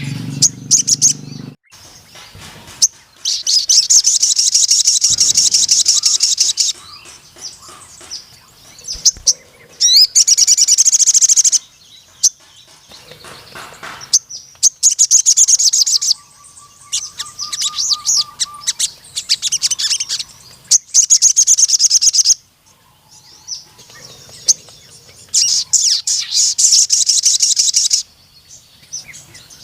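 A sogon sunbird singing in long, fast, high-pitched trilled phrases, each lasting one to three seconds, with short chirps in the pauses between them. This is the full, vigorous song that keepers call gacor and nembak panjang.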